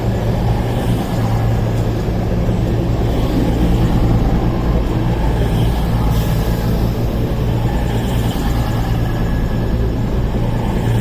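A pair of Class 220 Voyager diesel-electric multiple units running slowly into the platform, their underfloor diesel engines making a steady low hum.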